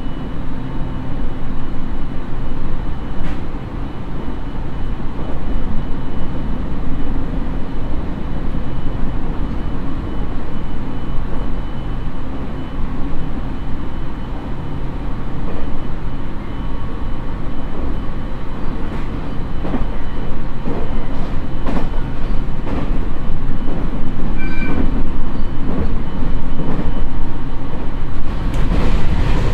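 Onboard running noise of a JR East 701 series electric train (KuMoHa 701-35) cruising at about 90 km/h: a steady rumble of wheels on rail with a faint steady high whine and scattered clicks from rail joints. The noise grows louder near the end as the windows go dark, as when the train enters a tunnel.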